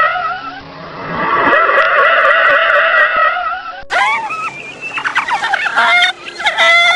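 A dense chorus of many birds calling over one another; about four seconds in it cuts to a different recording of loud fowl calls that break into quick rattling runs.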